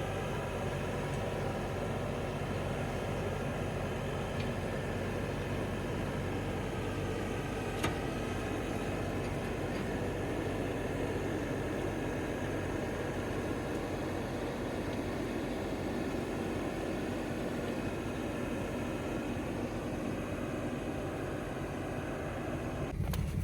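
A vehicle engine running steadily, an even low hum with no change in speed.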